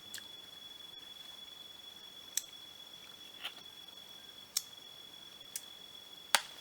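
Six sharp clicks at irregular intervals, like small hard shells knocking together, with the loudest near the end, over a steady high-pitched whine like forest insects.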